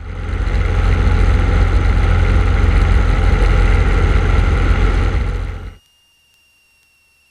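Cessna 150's four-cylinder Continental O-200 engine and propeller droning heavily and steadily in the cockpit. It starts abruptly and cuts off sharply after about six seconds, leaving only a faint steady tone.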